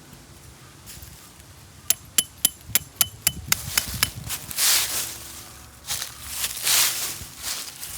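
About eight quick, sharp metallic knocks, like hammer blows, about two seconds in, each with a brief ring. They are followed by loud rustling and crunching in dry fallen leaves.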